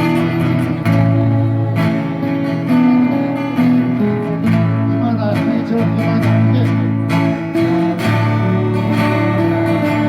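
Acoustic guitars strumming a song accompaniment, with steady chord changes and sustained low notes.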